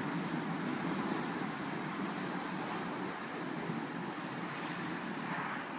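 BNSF coal train rolling away into the distance: a steady rumble of wheels on rail and the rear locomotive, easing off slightly as it goes.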